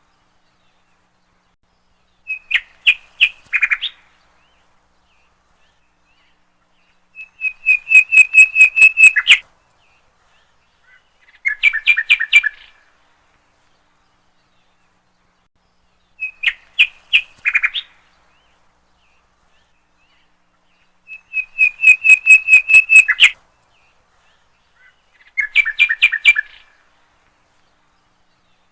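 Bird chirping in six short phrases of rapid, high chirps, each one to two seconds long, with silence between. The same sequence of phrases repeats about every 14 seconds, like a looped recording.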